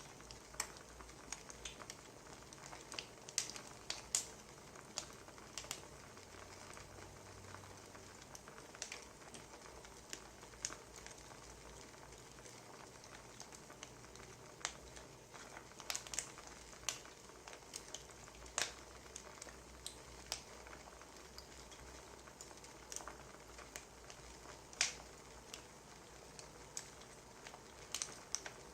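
Wood fire crackling: a low hiss with irregular sharp pops and snaps of burning logs.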